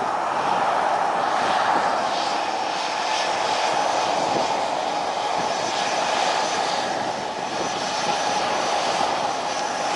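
Aircraft engines running steadily: a loud, continuous rush with a droning tone held throughout.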